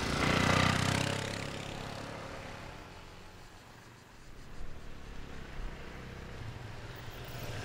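A car engine pulling away and fading, then a vehicle engine approaching with a low, even throb, growing louder near the end.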